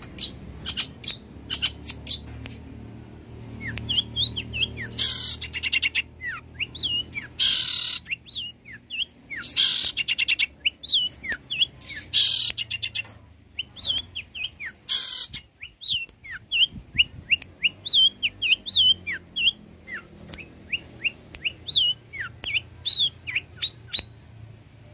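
Long-tailed shrike (cendet) singing a fast, chattering song of short whistled notes, broken by five loud, harsh rasping bursts every two to three seconds in the first part. The song stops just before the end.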